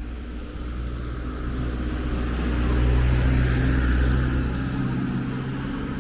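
A motor vehicle drives past on a street: a low engine hum with tyre noise that grows louder to a peak about three seconds in, then fades.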